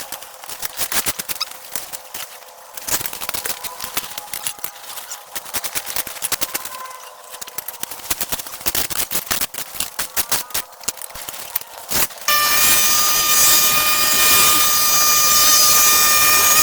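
Rapid, irregular sharp clicks and cracks, then about twelve seconds in a small motor starts suddenly and runs steadily with a high whine, louder than the clicking.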